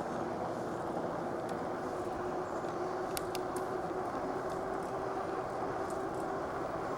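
Steady rushing noise of an e-bike being ridden: wind buffeting the microphone, which has no windscreen, along with tyre noise. A steady low hum runs underneath, and a few light clicks come about three seconds in.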